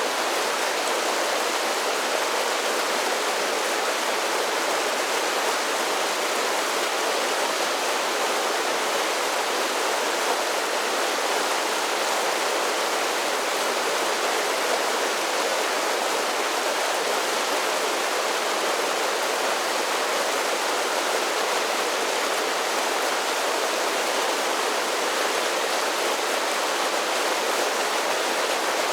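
Mountain creek running down a series of small waterfalls: a steady rush of water.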